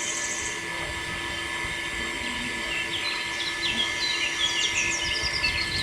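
Small birds chirping in quick, rapid notes that start about three seconds in, over a steady background hum. A high pulsing buzz stops within the first second.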